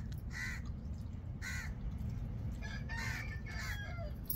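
Birds calling outdoors: four or five short pitched calls spaced about a second apart, over a steady low rumble.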